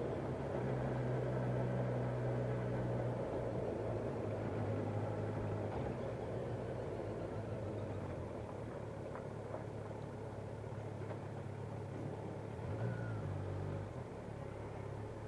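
Motorcycle engine running at low road speed with wind rush over the bike, its low drone easing down as the bike slows near the end.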